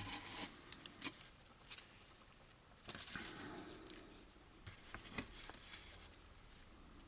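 Faint handling noises of plastic model-kit parts and tools on a workbench: a few light clicks and taps, with a short scratchy rustle about three seconds in.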